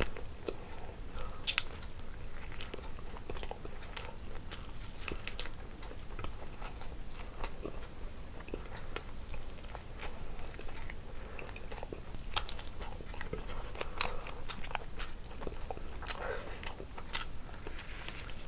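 A person chewing and biting food close to the microphone, with irregular small crunches and mouth clicks.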